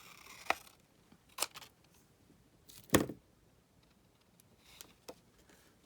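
Scissors cutting paper: a few short, sharp snips and clicks, with a louder knock about three seconds in.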